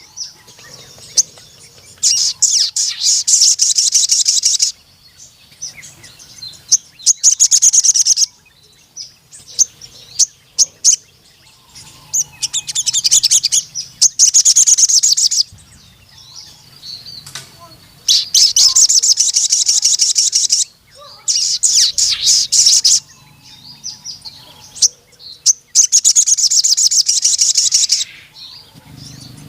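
A sogon (crimson sunbird) singing in loud, high, rapid trilling phrases of two to three seconds each, five times, with short thin chirps between them.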